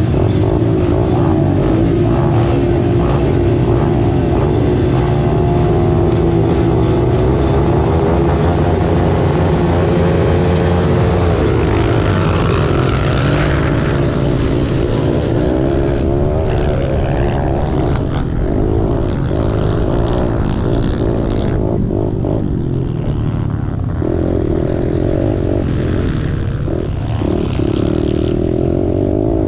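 Kawasaki KLX110's small four-stroke single-cylinder engine running under load as the dirt bike is ridden, its revs rising and falling again and again with gear changes and throttle.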